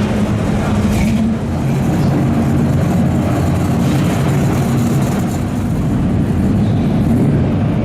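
Car engine running loud and steady with a low exhaust note, holding at low revs.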